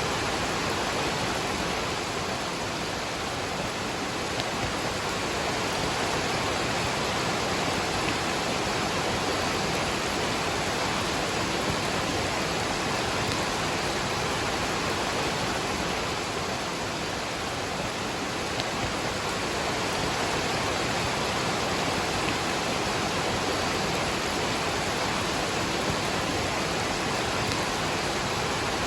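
Waterfall rushing steadily, with rain falling.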